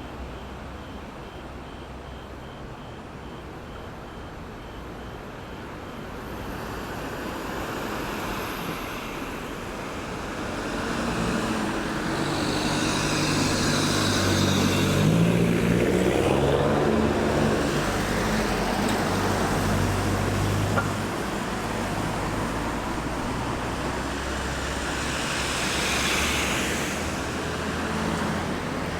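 Road traffic at a roundabout: a heavy vehicle's engine grows louder, its pitch stepping up and down as it passes through the middle, with tyre noise from cars, and another vehicle passes near the end. A faint high beeping, about two a second, sounds in the first few seconds.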